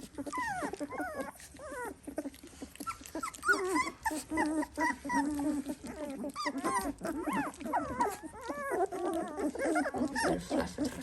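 Several three-week-old Dalmatian puppies whining and squealing in short, overlapping cries, the calls of hungry puppies wanting food.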